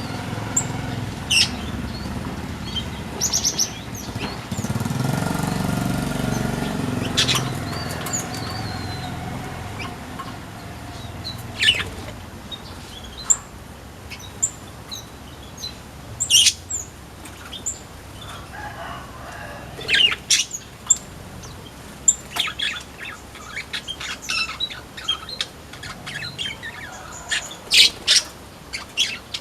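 Small aviary birds (flamboyan) giving short, sharp high chirps at irregular intervals, more often in the second half, with wings fluttering. A low rumble runs under the first several seconds.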